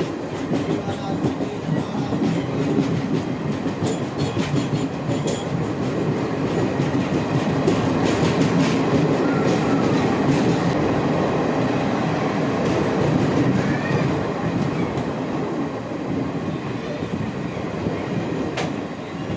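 Express train running along the track, heard from on board: a steady rumble with the wheels clacking over the rails.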